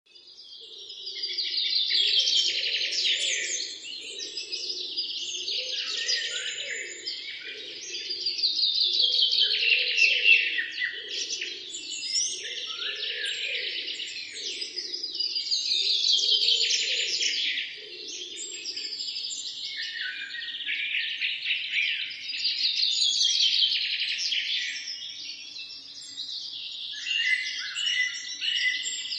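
Morning birdsong: several birds singing and chirping over one another in a dense chorus, swelling in bouts every six or seven seconds. The chorus fades in from silence at the start.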